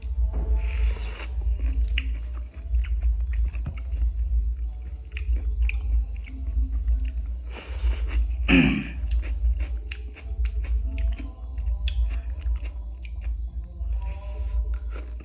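Close-up chewing and crunching of green papaya salad, with many small sharp clicks of the mouth and teeth. A longer, louder noisy sound comes about eight seconds in, over a steady low hum.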